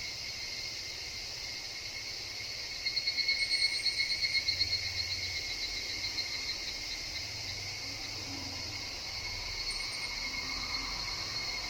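Higurashi (evening cicada) chorus in a forest: a steady high insect drone, with one louder, rapidly pulsing call beginning about three seconds in and lasting about two seconds.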